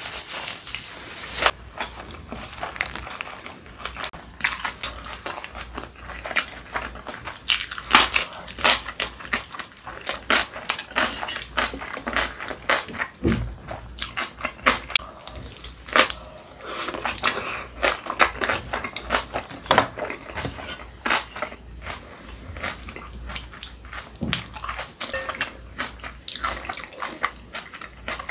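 Close-miked chewing and crunching of spicy kimchi, with many irregular crisp crunches and wet mouth sounds.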